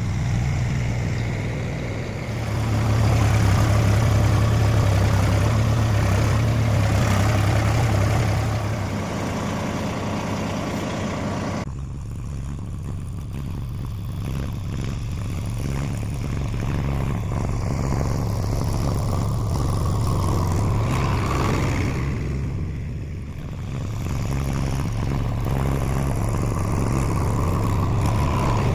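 Mahindra Yuvo Tech Plus 405 DI tractor's diesel engine running steadily. It is louder for a few seconds near the start, and its sound changes abruptly a little under halfway through.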